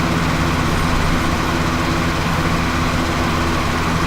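Lawnmower engine running steadily outside an open window, a constant hum that holds one pitch.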